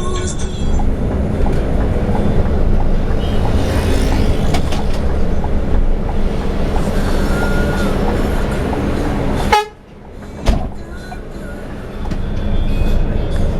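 Steady vehicle engine and road noise, strongest in the low range; it drops out abruptly about nine and a half seconds in and stays quieter for about two seconds before building back up.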